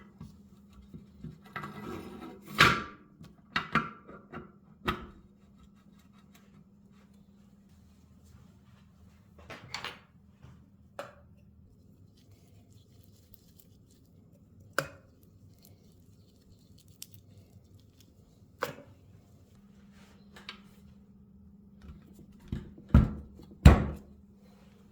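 Workshop handling sounds: scattered sharp knocks and clicks of parts and tools being picked up and set down, the loudest two near the end, over a faint steady hum.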